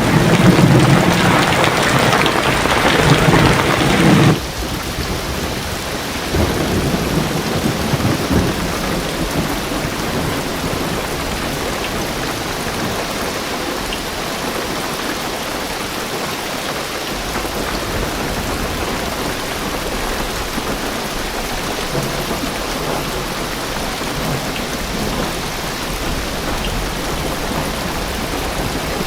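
Heavy rain drumming on a car roof, with a loud thunder rumble over it that cuts off suddenly about four seconds in. Steady rain follows.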